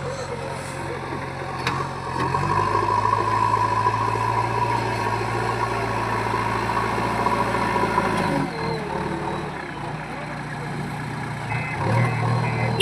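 Heavy diesel machine engine running, its speed rising about two and a half seconds in, holding steady, then dropping back to a lower speed near the eight-second mark. A few short repeated beeps sound near the end.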